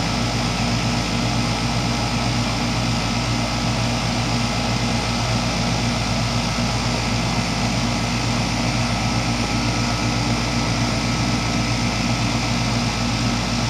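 2004 Goodman 10 SEER 3.5-ton heat pump outdoor unit running in heating mode: its Copeland reciprocating compressor and condenser fan make a steady low hum with the rush of fan air. The level stays even throughout.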